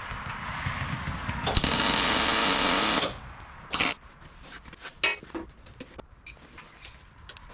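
Welder laying a tack weld, a steady crackling buzz for about a second and a half, then a second short tack. Scattered clicks and taps follow.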